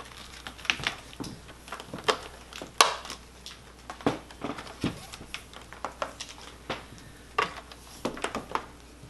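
Irregular hard clicks, knocks and rubbing from handling an upright vacuum cleaner as its power cord is wrapped around the cord hooks, with a dozen or more separate knocks, the sharpest about three seconds in.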